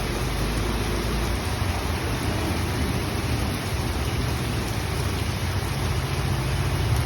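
Steady rain falling: an even hiss, with a low rumble underneath.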